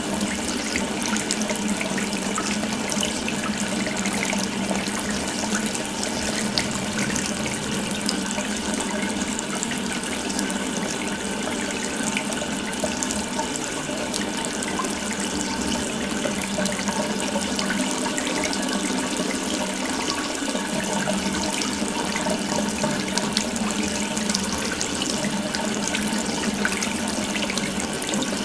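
Water from an open tap running steadily into a sink, a continuous even splashing rush.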